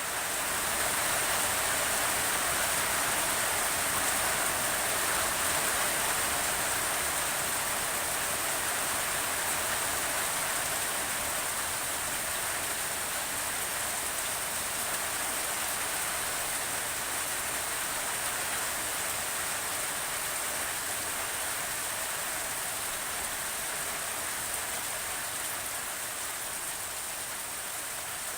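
Steady rain falling on a surface, an even hiss with no single drops standing out.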